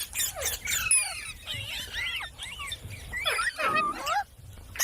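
Parrot calling in a quick run of short squeaky chirps and screeches that swoop up and down in pitch, with a few sharp clicks, dipping briefly a little after four seconds in.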